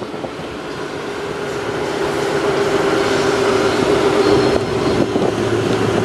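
Chevy Silverado 3500 gas pickup driving, heard from inside the cab: engine and road noise with a steady hum, growing louder over the first couple of seconds.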